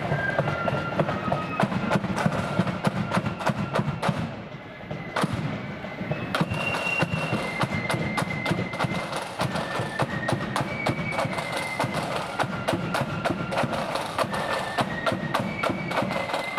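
Marching flute band playing a tune: shrill flute melody notes over rapid, steady drum beats. The sound dips briefly about four seconds in, then picks up again.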